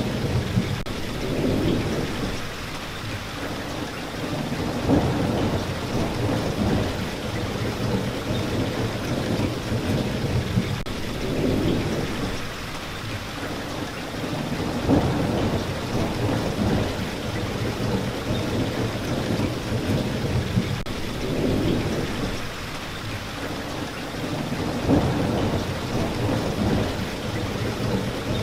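Steady rain, with low rumbles that swell and fade about every five seconds.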